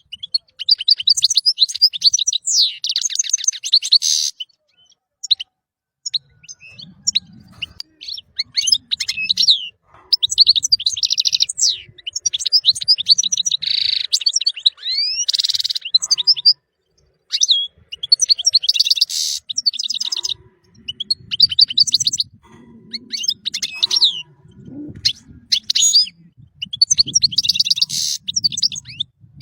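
European goldfinch singing: rapid twittering phrases of quick high notes and short slurs, broken by brief pauses, with fuller gaps about five seconds in and again around the middle.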